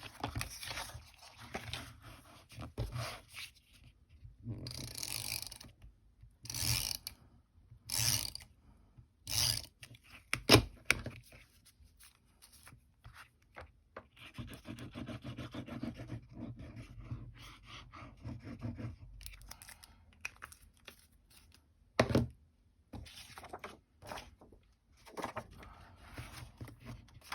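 Paper and craft tools handled on a tabletop: a run of short scrapes and knocks, the loudest about ten seconds in, then a stretch of steady rubbing, and one more knock a few seconds before the end.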